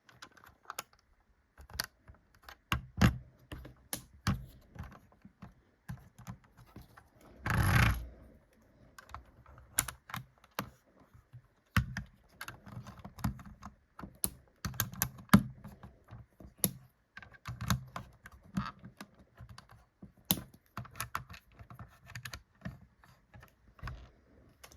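Plastic Lego bricks clicking and knocking as they are handled, pulled apart and pressed together by hand, in a run of irregular sharp clicks. About eight seconds in there is a louder noisy burst lasting under a second.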